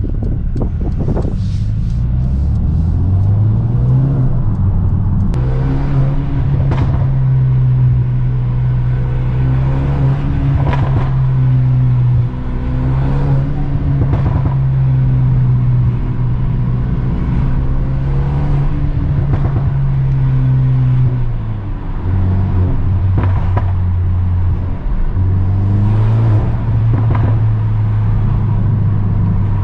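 Mercedes-AMG A35's turbocharged 2.0-litre four-cylinder, heard from inside the cabin through an exhaust with the rear silencer box removed, while the car is driven in the lower gears. The engine note climbs over the first few seconds and holds steady, drops about three-quarters of the way through, then climbs again, with several short sharp cracks along the way.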